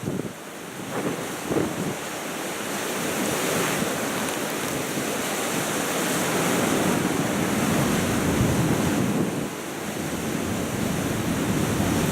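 Strong storm wind gusting and buffeting the microphone in a steady rush, easing briefly near the start and then building again.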